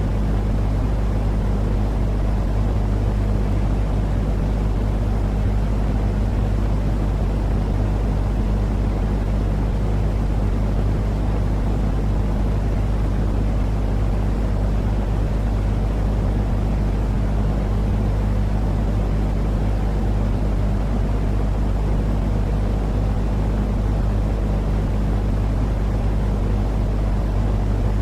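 Steady, unchanging white-noise sleep track, weighted toward the low end like a deep rumbling drone, with a low steady hum under it.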